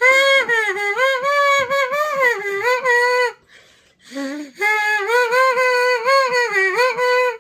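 Trumpet playing a simple melody of held, stepping notes in two phrases, with a short pause for breath about halfway through.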